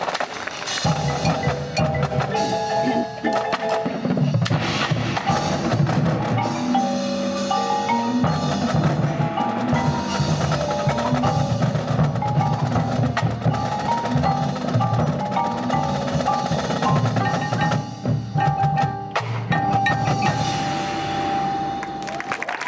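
Marching band percussion playing a fast, dense passage: drumline strokes under pitched mallet-percussion notes, with one note held near the end.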